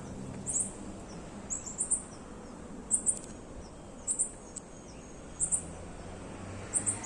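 A bird calling over and over: short, high double chirps about once a second.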